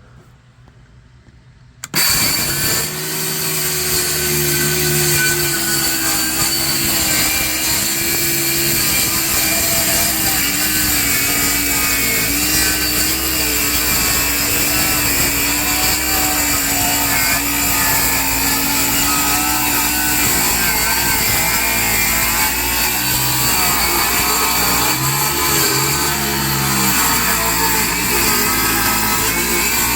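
Cordless power saw starts about two seconds in and runs steadily, cutting through the camper's wafer-board subfloor, its pitch wavering slightly under load.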